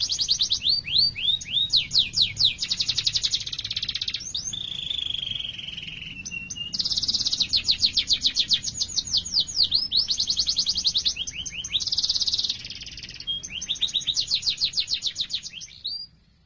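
Domestic canary singing a long, fast song: rapid rolling trills and strings of quick downward-sweeping chirps, with a short smooth falling note midway. The song stops abruptly at the end.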